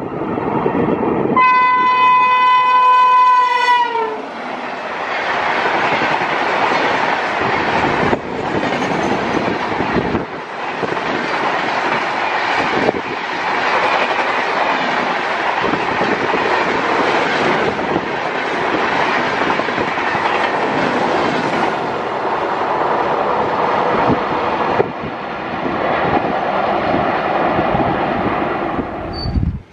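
WAP-7 electric locomotive horn sounding one long note for about two and a half seconds, dipping in pitch as it cuts off. Then a long steady rush as the train of LHB passenger coaches passes at speed, with occasional knocks from the wheels on the rails.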